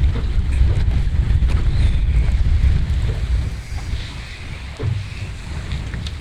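Strong wind buffeting the microphone, a heavy gusty rumble that eases off about three and a half seconds in, with a few faint clicks.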